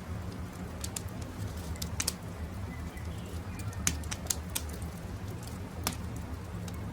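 Wood campfire crackling, with irregular sharp pops and snaps over a steady low rumble, and faint birdsong behind it.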